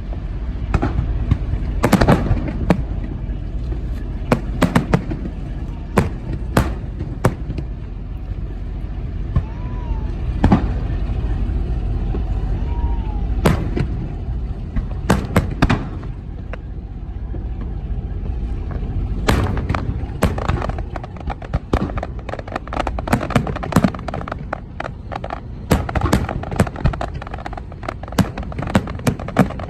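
Fireworks bursting overhead: irregular booms and sharp cracks, with dense runs of rapid crackling in the second half.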